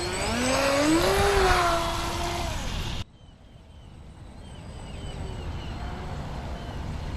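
Pro Boat Recoil 2 18-inch RC boat's brushless motor whining under throttle, its pitch rising then holding, over a hiss of water spray. About three seconds in the sound drops off suddenly, leaving only a faint distant whine.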